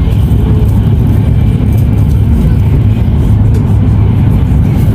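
Loud, steady low rumble of a moving vehicle heard from inside it.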